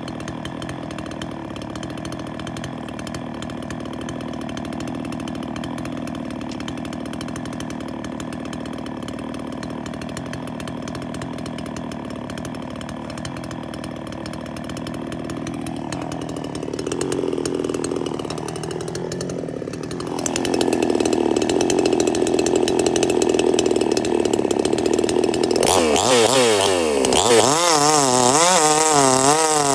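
Chainsaw engine running steadily at a low speed, then louder after about 20 seconds; near the end its pitch swings up and down quickly as the engine speed rises and falls.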